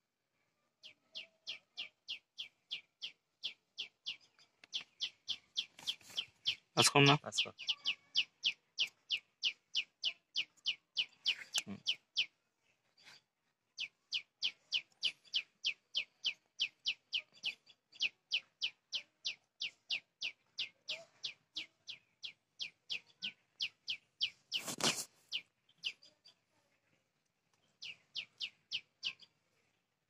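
A bird chirping in fast, even runs of about four to five short chirps a second, with a couple of brief pauses. Two sharp knocks stand out, one about a quarter of the way through and one about five-sixths of the way through.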